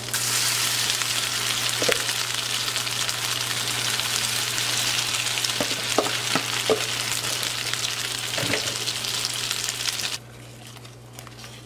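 Dried-shrimp and egg patties (tortitas de camarón seco) frying in hot oil in a skillet: a steady sizzle with a few small pops, which cuts off abruptly about ten seconds in.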